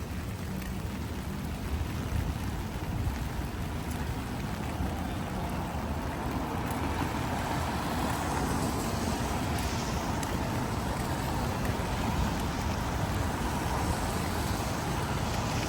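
Steady heavy rain with wind and a low rumble; a broad hiss swells from about halfway through.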